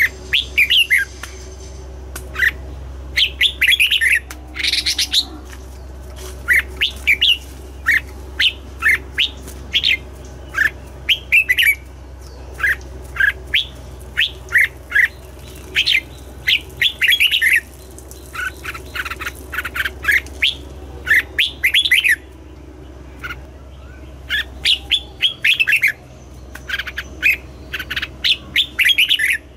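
Red-whiskered bulbul singing: quick phrases of short whistled notes, one group after another with brief gaps, over a steady low hum.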